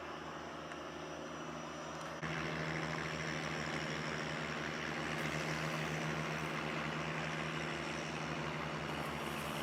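A boat engine running steadily with an even low throb. It gets louder about two seconds in.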